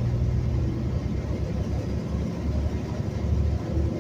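Metro transit bus running along the road: a steady low engine and road rumble. A humming engine tone fades out about a second in.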